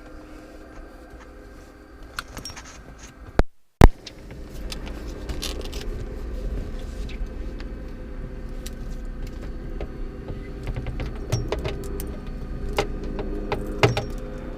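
Robinson R22 helicopter's piston engine starting: a sharp click about four seconds in, then the engine running with a low steady rumble, with scattered clicks and rattles.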